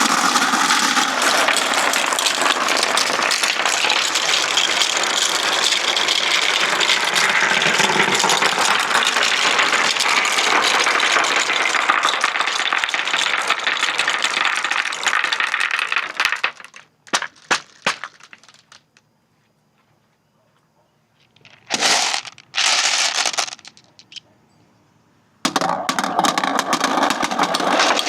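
Many glass marbles rolling and clattering together down a marble-run track in a dense, continuous rattle. It thins to a few single clicks, goes almost quiet, has two short bursts of rolling, and then the full clatter returns suddenly near the end.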